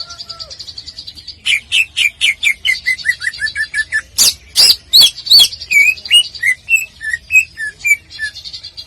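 Cucak ijo (greater green leafbird) singing a varied full song. A rapid high trill gives way about a second and a half in to a fast run of short falling notes, then a few loud sweeping calls near the middle and a string of separate whistled notes, before the trill returns near the end.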